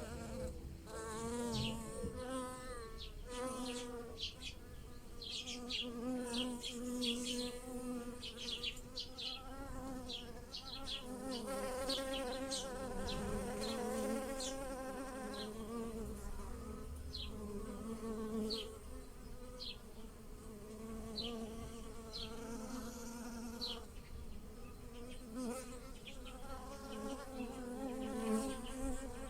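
Bees buzzing around blossoming pear and apple trees, several at once, their hum wavering in pitch as they fly. Short high chirps sound on and off throughout.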